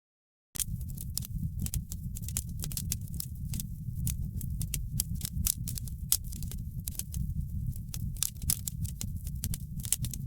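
Wood fire in a fireplace crackling, with many sharp irregular pops over a steady low rumble. The sound drops out completely for the first half second, then resumes.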